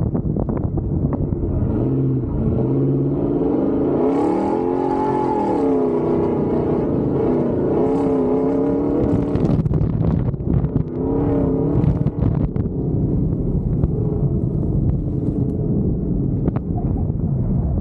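Truck engine running hard while driving on a dirt track, its pitch rising and falling twice as it revs up and eases off, over a steady low rumble with scattered knocks and rattles.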